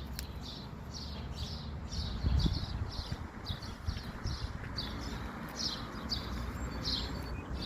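A small bird chirping over and over, about two short high notes a second, over a low rumble of wind on the microphone.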